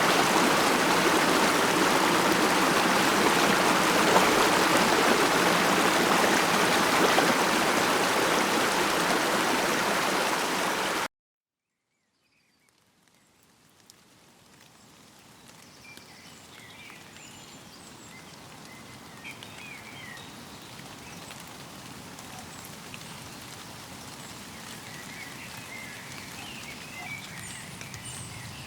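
A stream rushing steadily, then cut off abruptly about eleven seconds in. After a second or so of silence, a much quieter outdoor ambience fades in, with small birds chirping.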